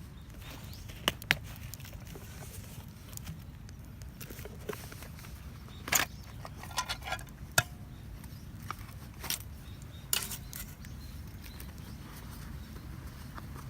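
Scattered knocks and clinks of metal camp cookware being handled, a few leaving a short metallic ring, over a low steady rumble.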